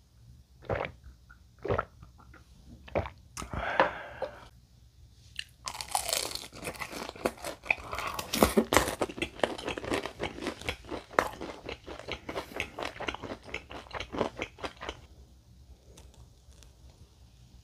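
Close-up crunching and chewing of crispy fried tangsuyuk (battered pork), dense and loud for about ten seconds before easing off near the end. A few isolated sharp clicks come first.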